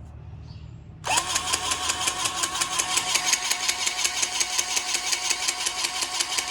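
Electric grease gun starting about a second in and running steadily, its motor whirring with a fast, even pulsing as it pumps grease into the drive shaft's spline fitting.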